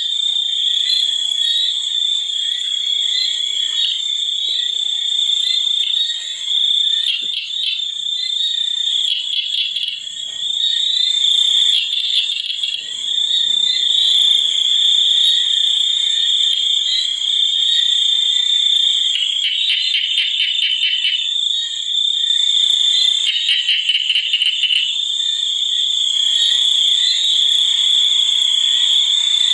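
Chorus of calling frogs and insects: a steady high-pitched drone throughout, with bursts of rapid pulsing calls every few seconds.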